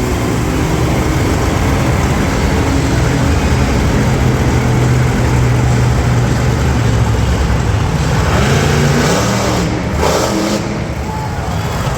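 Monster truck engine running loud and steady, with its pitch shifting as it is revved about two-thirds of the way in, then easing off slightly near the end.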